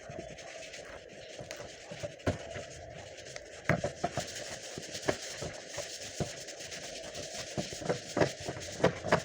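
Hand work on wood: irregular sharp knocks and taps with scraping and rubbing between them, over a steady hum.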